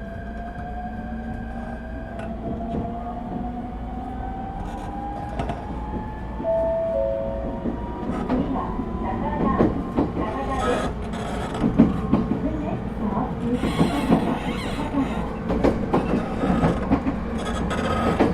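Toyo IGBT-VVVF inverter traction motors of an ET127 series electric train whining upward in pitch as it accelerates, heard from inside the car. The whine then gives way to louder running noise, with wheels clacking over rail joints as speed builds.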